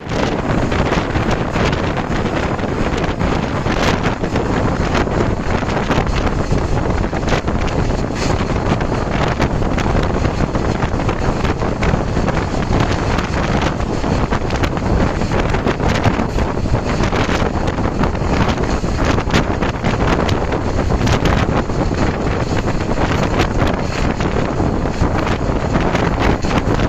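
Wind buffeting the microphone on a moving train, over the steady rumble of the train running along the track.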